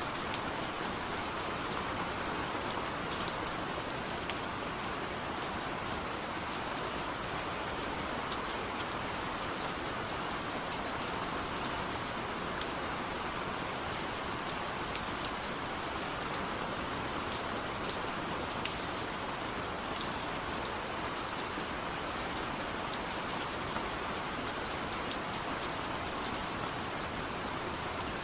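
Steady light rain falling on a surface, an even hiss with scattered individual drop ticks.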